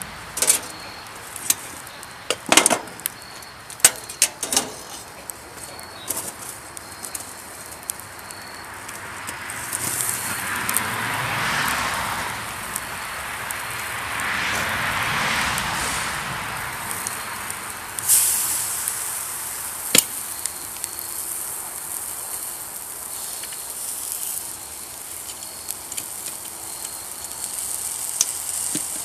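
Wood and charcoal campfire crackling and hissing, the hiss swelling and fading twice. A cluster of sharp pops and knocks comes near the start, with a single loud crack about two-thirds through.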